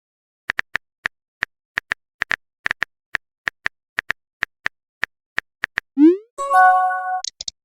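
Phone keyboard typing clicks: about two dozen quick, uneven taps. About six seconds in comes a rising swoosh and a short chime, the message-sent sound of a texting app.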